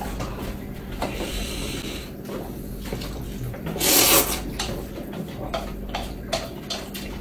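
Handling noises at a meal table: scattered light clicks and knocks of bowls and utensils, with one louder noisy rustle about four seconds in that lasts about half a second.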